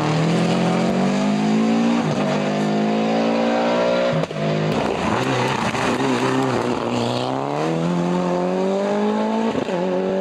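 Rally car engine running hard under acceleration, its pitch climbing and dropping at gear changes about two seconds in, about four seconds in, and near the end.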